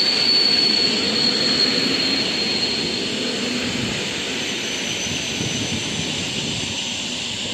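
Passenger train passing at speed and drawing away: a steady rush of wheels on rail, with a thin high whine that fades over the first three seconds, the whole noise slowly dying down.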